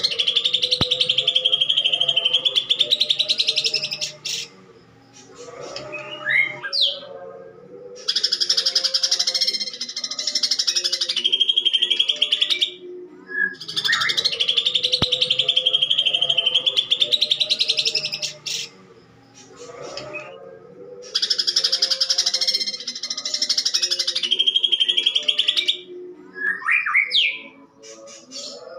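Cucak ijo leafbird singing in bouts of rapid, harsh chattering notes several seconds long with short pauses between, mimicking the calls of house sparrows fighting.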